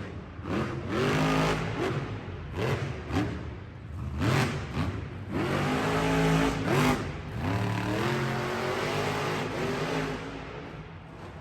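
Monster truck engine revving hard several times, its note climbing steeply in pitch on each rev and dropping back in between.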